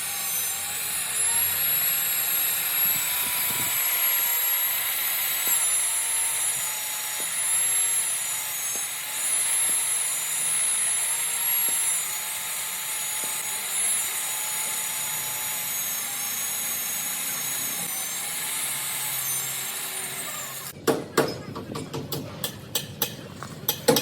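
A power tool running with a steady high whine whose pitch wavers slightly. About 21 seconds in it stops and gives way to a quick run of sharp, irregular strikes on metal, like hammer blows.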